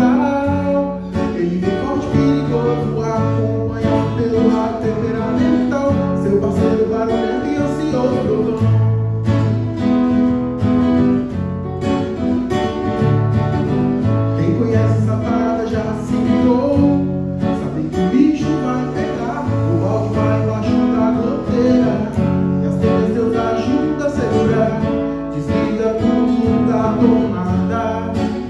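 A song played on strummed acoustic guitar with a bass line.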